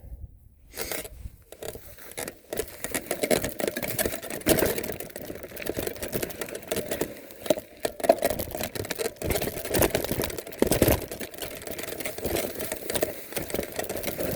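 Dense, irregular rattling and crackling of an electric bike and brush as the bike is taken through bushes over rough ground, with a few louder knocks about eight and eleven seconds in.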